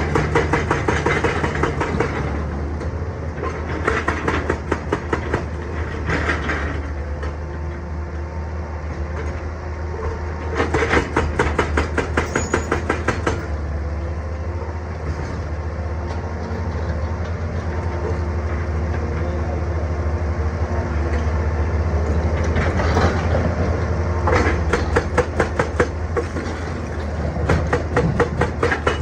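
Excavator's diesel engine running steadily, with several bursts of rapid hammering, many blows a second, from a hydraulic rock breaker striking stone.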